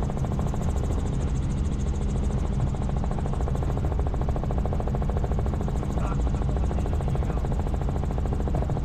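Helicopter in steady flight: the engine's and rotor's steady drone with a fast, even rotor pulse.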